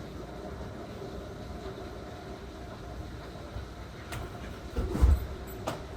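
Steady low rumble of thunderstorm wind and rain. A few sharp clicks come about four seconds in, followed by a heavy low bump, the loudest sound, about five seconds in.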